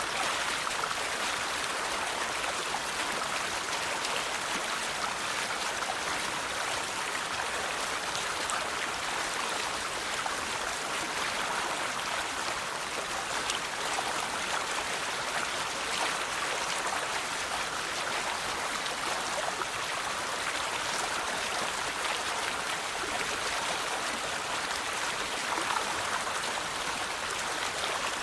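A river's flowing water, a steady rush with fine trickling and splashing.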